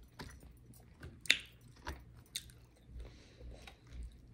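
Close-miked chewing of a fried chicken wing, with sharp crispy crunches, the loudest about a second in, and a fresh bite into the wing near the end.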